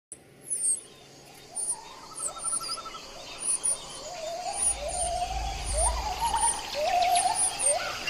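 Birds calling: a short, low, upward-sliding call repeated many times, with thin high chirps over it and a brief trill about two and a half seconds in.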